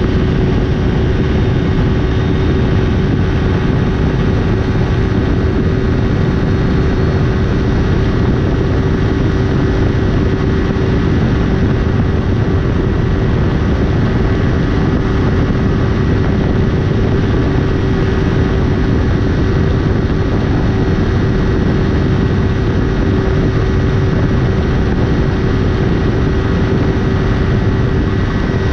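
Yamaha YZF-R3's parallel-twin engine, fitted with a Leovince LV10 exhaust, held at high revs at full throttle near its top speed of about 110 mph, running with one steady drone under heavy wind rush on the microphone.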